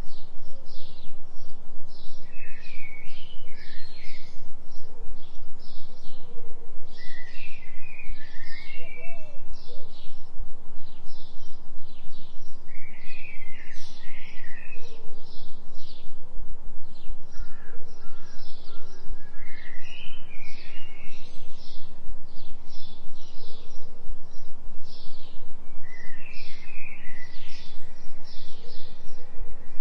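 Forest birds chirping over a continuous deep hum of binaural-beat tones. The hum pulses evenly and is the loudest sound. Quick high chirps repeat steadily, with a fuller call phrase every few seconds.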